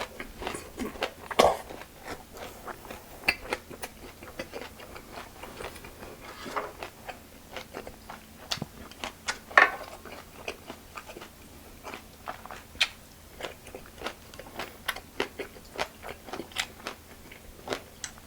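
A person chewing and biting food close to the microphone: irregular wet mouth clicks and crunches, a couple of louder crunches about a second and a half in and near the middle.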